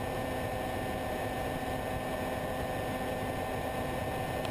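Steady hum and hiss with faint constant tones, unchanging throughout.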